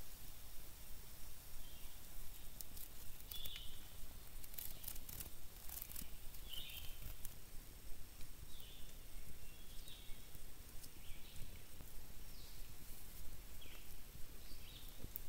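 A bird gives short high chirps about every one to two seconds over a steady low background rumble, with a few faint crackles and rustles in the first half.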